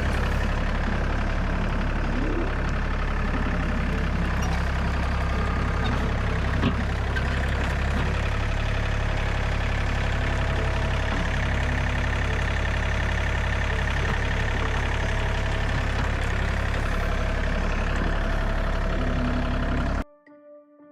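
Compact tractor's diesel engine running steadily at a constant speed; it cuts off abruptly about twenty seconds in.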